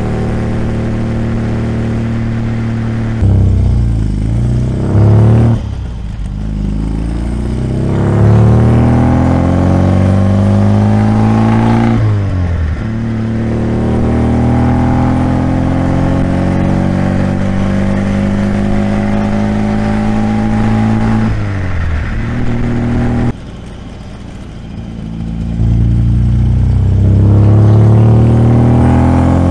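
1972 MGB GT's 1.8-litre B-series four-cylinder engine pulling through the gears under way. The note rises steadily and drops back at each change up, a few seconds in, about twelve seconds in and about twenty-one seconds in. It goes quieter for a few seconds off the throttle, then pulls hard again near the end.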